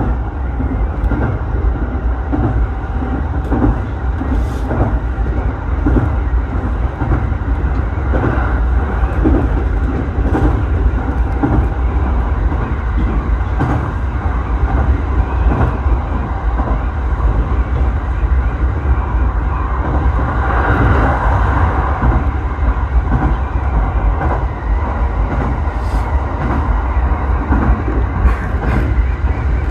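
Electric commuter train running between stations, heard from inside the passenger car: a steady low rumble with occasional faint clicks from the wheels, swelling briefly about two-thirds of the way through.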